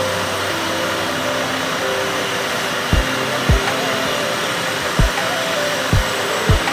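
Turboprop airliner engines running with a loud, steady hiss, while five short low thumps of wind buffeting the microphone come in the second half.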